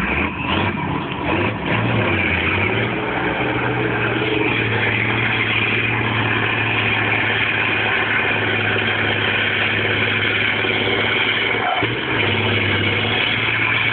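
Truck-trial competition truck's engine revving up over the first couple of seconds, then running hard at steady high revs, with a brief drop in revs near twelve seconds.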